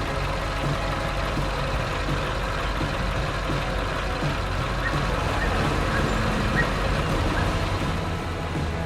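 A heavy vehicle's engine running steadily with a low rumble.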